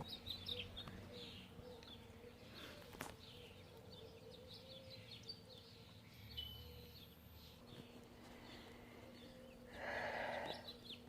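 Songbirds chirping and singing in the background, many short calls scattered throughout, over a faint steady hum. A brief louder rustling noise comes near the end.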